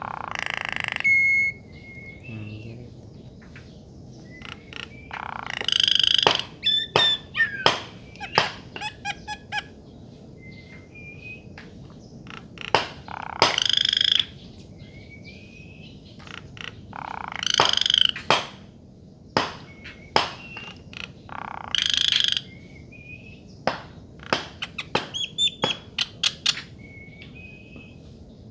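A bird calling: harsh, rasping calls about a second long, five of them spaced a few seconds apart, with quick runs of sharp clicking notes and short, faint whistled notes in between.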